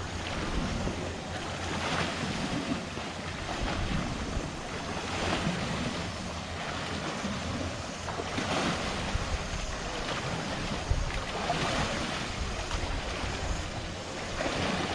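Wind rushing over the microphone, swelling in gusts every few seconds.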